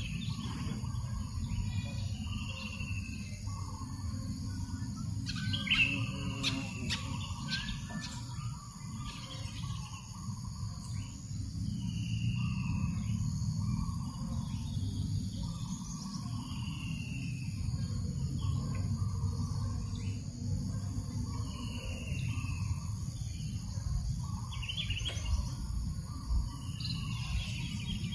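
Birds calling: a short, slurred, falling call repeats every two to three seconds, with a few quicker chirps around the sixth second. Under them runs a steady low rumble of breeze.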